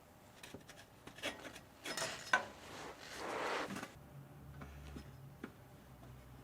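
Scattered light clicks, clinks and knocks of hand work with tools or parts, with a short scraping rub about three seconds in; a faint steady low hum starts about four seconds in.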